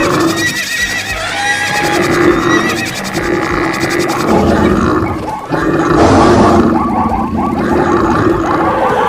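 A dense mix of animal calls, a horse's whinny among them, laid over each other as a stampede sound effect.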